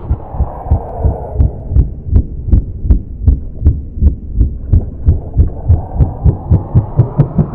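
Low, heartbeat-like thumps, about two to three a second, quickening near the end under a rising swell, as part of a sound-designed soundtrack.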